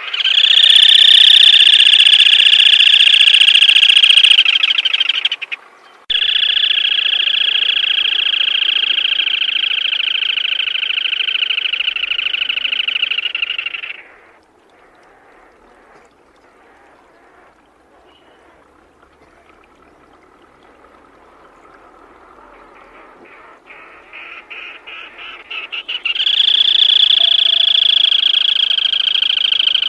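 Black-tailed crake calling in long, rapid, rattling trills, three bouts in all. The first lasts about five seconds and the second about eight. After a quieter gap, a run of separate ticks builds into the third bout, which starts near the end.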